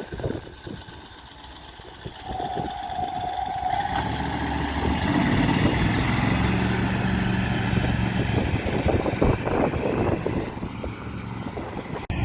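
Swamp buggy's Loncin petrol engine running, quieter at first, then louder and steady from about four seconds in as it is worked harder. A brief steady whine sounds at about two seconds.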